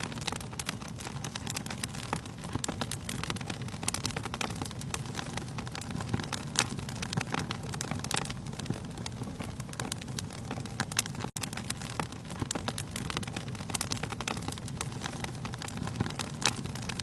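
Wood fire burning in a fireplace: frequent sharp crackles and pops over a steady low rumble of the flames, with a momentary dropout about eleven seconds in.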